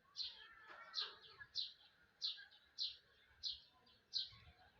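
A small bird chirping repeatedly: short, quickly falling chirps, evenly spaced, about one every half second or so.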